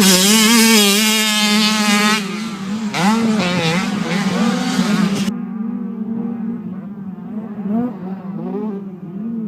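Racing engines running at high, fairly steady revs, the pitch wavering slightly as the throttle is worked. The sound grows duller and quieter about halfway through.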